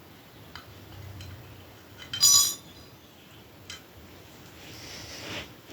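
A brief bright chime: one ringing strike of several high tones, the loudest sound, lasting under half a second about two seconds in. Faint clicks come before and after it, and a soft breath-like hiss comes near the end.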